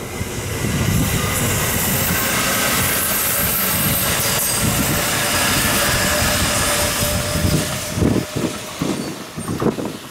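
Electric commuter train on the Kintetsu Kyoto Line passing close by at speed: a steady rush of wheels on rail with faint steady tones. Near the end it fades, and a few separate wheel thumps over rail joints sound as the last cars go by.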